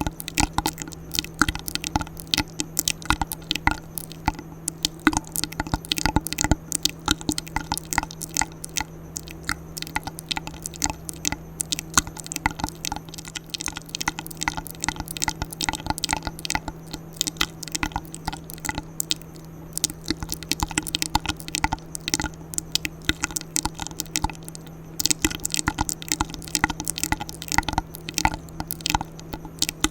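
ASMR mouth sounds close to the microphone: a rapid, unbroken stream of wet clicks and smacks, with a low steady hum underneath.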